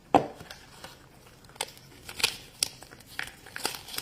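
Hands opening a plastic surprise egg and its wrapping: a soft knock at the start, then scattered light clicks and crinkles.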